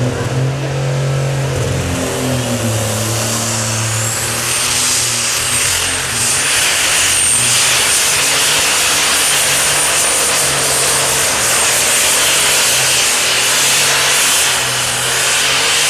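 Turbocharged super stock pulling tractor engine running at full power during a pull, loud and steady, with a high whine that rises about four seconds in and then holds.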